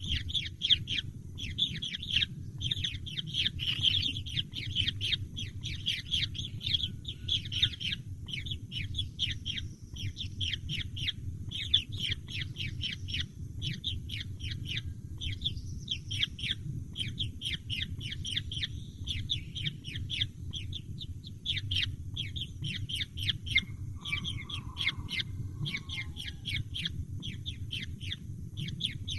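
Baby birds chirping rapidly and without pause, many short high chirps a second, over a steady low rumble.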